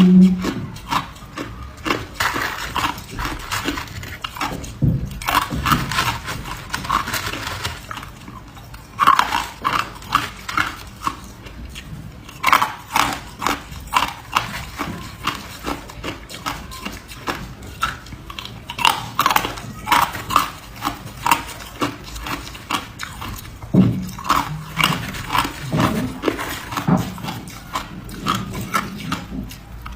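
Hard ice being bitten and chewed close to the microphone: sharp crunching and cracking in clusters of many quick crunches, with short pauses between bites.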